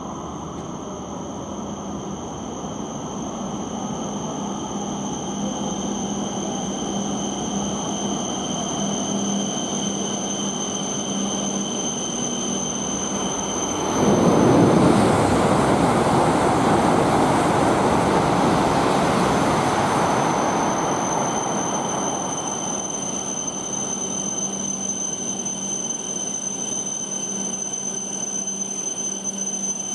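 E5 series Shinkansen train pulling in along the platform and slowing to a stop. Its rumble builds gradually, turns suddenly loud about halfway through as the front of the train comes alongside, then eases off as it slows.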